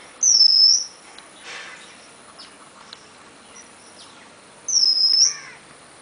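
A bird calling twice: two loud, high whistles, each about half a second long and about four and a half seconds apart, with faint chirps between them.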